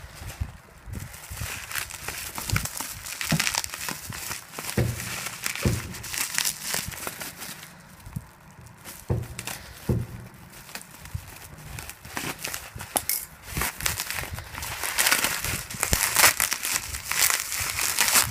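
Crinkly packaging being handled and unwrapped, with irregular crackling and rustling that grows busier in the last few seconds.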